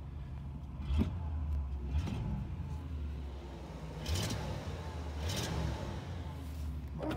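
1983 Buick Electra's engine running unevenly and surging several times, heard from inside the cabin, while the car bucks as it is driven through snow, with two short hissy bursts in the middle. The owner is not sure why it bucks; the engine is freshly cold-started and wants to stall unless the accelerator is worked.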